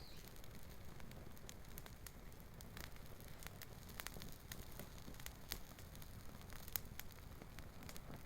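Campfire of gathered fallen forest wood crackling faintly, with scattered sharp pops, the sharpest a little before the end.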